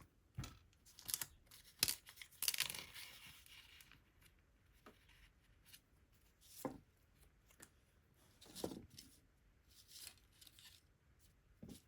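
Quiet hand-crafting handling noises: scattered small clicks and taps, with a short stretch of paper rustling or tearing about two and a half seconds in.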